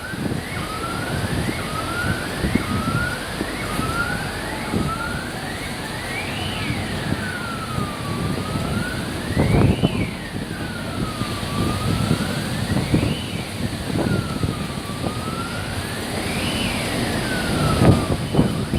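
Emergency vehicle siren, first in about six quick rising sweeps, then switching to a slow wail that rises and falls about every three seconds, over the steady hiss of heavy rain.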